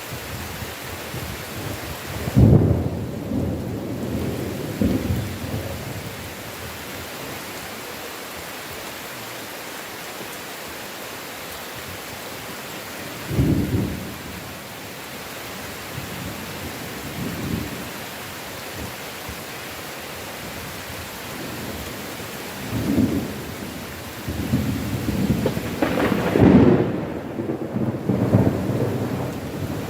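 Steady heavy rain with rolling thunder. A sudden clap and rumble comes about two seconds in, a shorter rumble near the middle, and a longer run of rumbles near the end.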